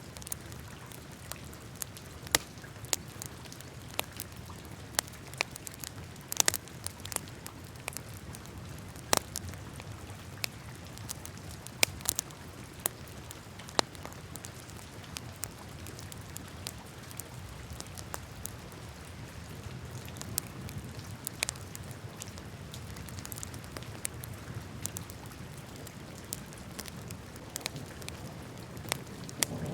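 Wood fire crackling in a fireplace: irregular sharp pops and snaps over a steady low rumble of the flames. The pops come more thickly in the first half.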